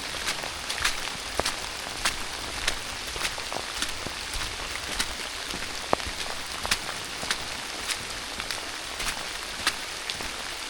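Steady rain falling, an even hiss broken by sharp ticks of heavier drops about every half second.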